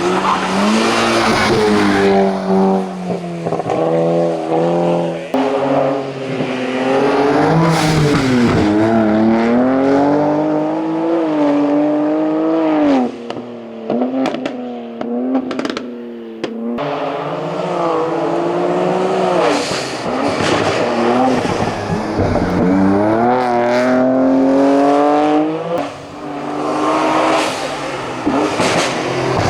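Competition car's engine revving hard at full throttle. The pitch climbs and drops in steps at each gear change, with deeper dips on lifting and braking, then climbs again.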